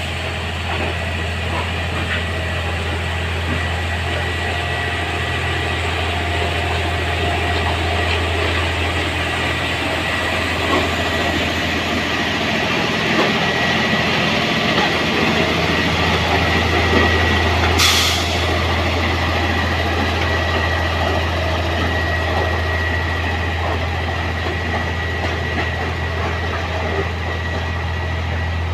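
Heavy engine idling steadily: a constant low hum with a thin, steady high tone over it. A single sharp click comes about 18 seconds in.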